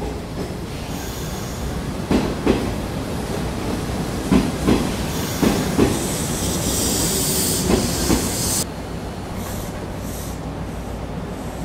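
Nishitetsu 5000 series electric train pulling into the platform: its wheels knock over rail joints in pairs of clacks. Then a high brake squeal and hiss as it slows to a stop, cutting off suddenly about two-thirds of the way through.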